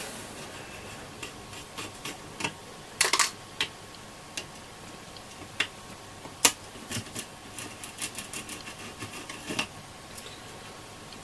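Small Phillips screwdriver undoing the tiny screws on the AOR AR-2002 receiver's board: scattered, irregular clicks and light taps, the sharpest about six and a half seconds in.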